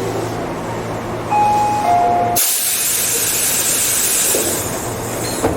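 Interior sound of a Tobu 8000 series electric train: two short beep tones, the second lower, then a loud burst of air hiss lasting about three seconds as the low hum drops out, ending in a knock.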